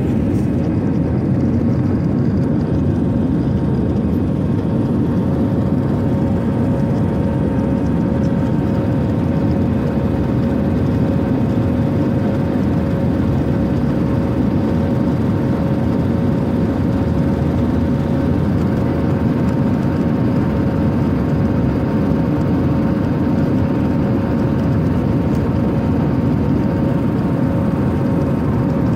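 Aircraft engine and airflow noise heard as a steady, loud, low rumble with a constant hum running through it, typical of an airliner's passenger cabin during takeoff.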